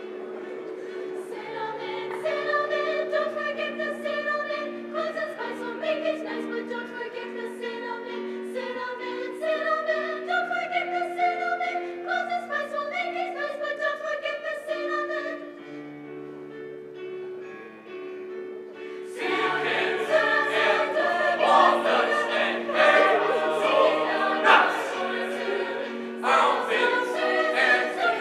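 Choir singing a slow piece in several parts, with long held notes; the singing swells fuller and louder about two-thirds of the way through.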